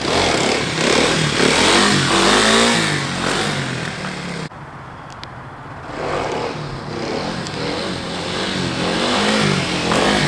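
Kawasaki KLX 300's single-cylinder four-stroke engine revving in first gear as the dirt bike is pulled up into wheelies: the revs climb, cut off sharply about four and a half seconds in, then build again.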